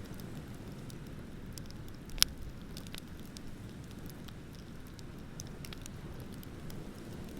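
Wood bonfire crackling, with scattered small pops and one sharp loud pop about two seconds in, over a steady low rush of ocean waves.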